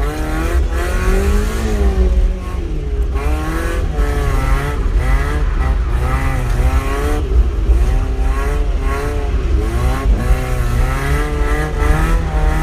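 Mazda MX5's standard 1.6-litre four-cylinder engine revving up and down again and again under hard driving while drifting, its pitch rising and falling every second or so over a constant low rumble.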